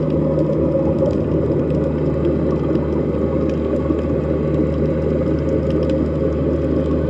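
Underwater sea ambience: a steady low drone with a couple of held low tones underneath and faint scattered clicks on top.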